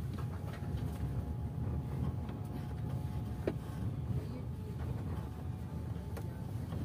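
Steady low rumble of a passenger train heard from inside the carriage, with a faint steady tone above it. A few light clicks, one sharp click about halfway through.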